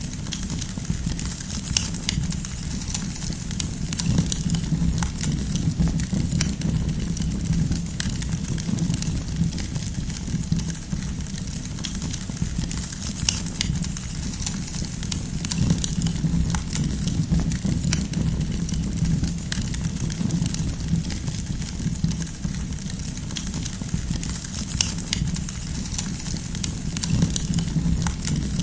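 Wood fire burning with a steady low rumble of flames and frequent small, sharp crackles and pops from the burning firewood.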